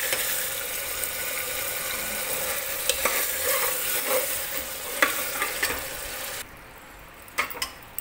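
Mutton korma sizzling as it is fried down in an aluminium pressure cooker, with a steel spoon stirring and scraping against the pot several times. About two-thirds of the way through, the sizzle drops off sharply, leaving a few light spoon clicks.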